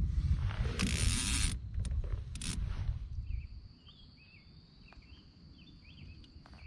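Outdoor ambience: a low rumble with two short rasping noises in the first half, then quieter with faint repeated chirps over a steady high whine.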